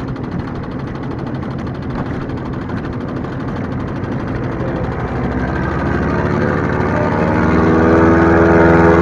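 Small outboard boat motor running steadily on the water, growing louder from about halfway through as the boat comes closer.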